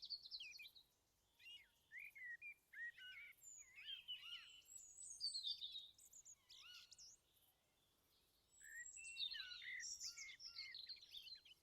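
Faint chirps and calls of several birds, quick rising and falling notes in two flurries with a short lull between them.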